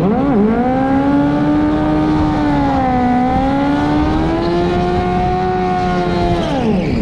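A drag car's engine at full throttle making a quarter-mile pass. The engine pitch dips at a gear change shortly after the start, holds high, then falls steeply near the end as the driver lifts off.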